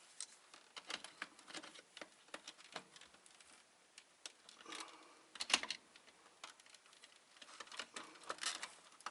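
Scattered small clicks, taps and scrapes of hands and a tool working on the plastic and metal parts of a UPS, freeing a ground wire, with a louder clatter about five and a half seconds in.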